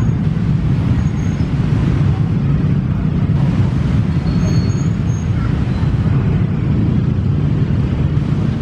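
Steady low rumble of heavy vehicles passing, with a few faint, brief high squeaks.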